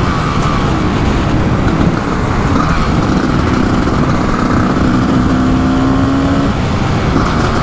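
Kawasaki KX500 500cc single-cylinder two-stroke engine running under load while riding, its note held steady for a few seconds and then dropping away near the end, over heavy wind rush on the microphone.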